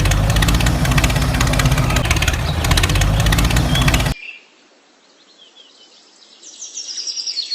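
A loud machine running with a rapid rattle and a low rumble, cut off abruptly about four seconds in. Then it is quiet, with a few short chirping bird calls near the end.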